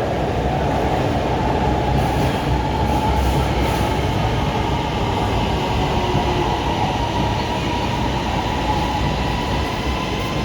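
Lahore Orange Line metro train running in along the platform as it arrives: a steady rumble of wheels on rail with a faint high whine.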